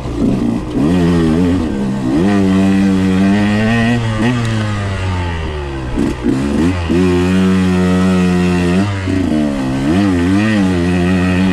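A 125cc two-stroke dirt bike engine (KTM 125XC) being ridden off-road, its pitch rising and falling over and over as the throttle is worked, with a few steadier stretches at a constant speed.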